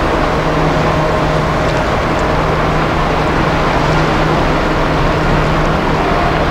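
Large cruise ship's engines and on-board machinery giving a steady, loud drone with a constant low hum as the ship sails out of the harbour.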